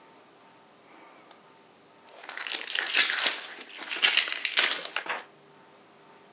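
Plastic packaging crinkling and rustling as it is handled and opened, in two loud spells of about a second and a half each, starting about two seconds in.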